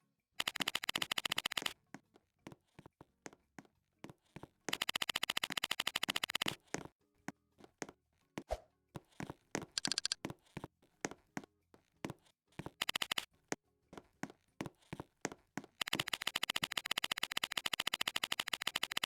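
Rapid, sharp clicking in fast runs of one to four seconds, with scattered single clicks between the runs.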